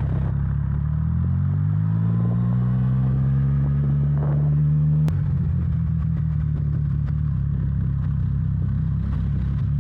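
Motorcycle engine accelerating, its pitch climbing for about four seconds, then dropping with a click at a gear change and running on at a steady pitch.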